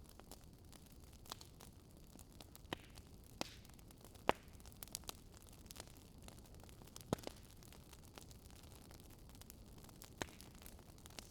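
Wood fire crackling faintly: scattered sharp pops at irregular intervals over a low steady hiss, the loudest pop a little over four seconds in.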